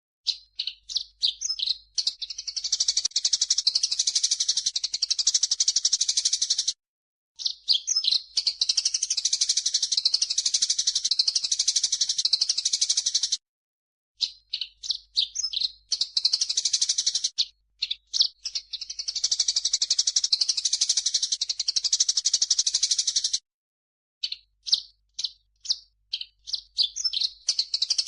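Masteran bird-song recording mixing grey-cheeked bulbul (cucak jenggot) and Eurasian tree sparrow (burung gereja): dense, high chattering and rattling calls in long continuous stretches. Three times the recording cuts off abruptly into a second or less of silence before the chatter starts again.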